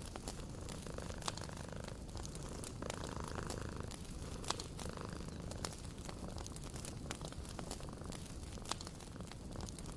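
A cat purring steadily, mixed with a wood fire crackling and popping in irregular sharp clicks.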